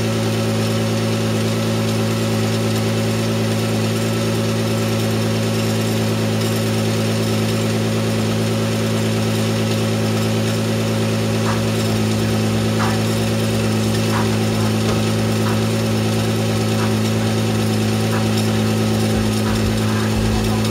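1993 Mazda MX-3's 1.8 V6 engine idling steadily, with faint, irregular ticks from about halfway through.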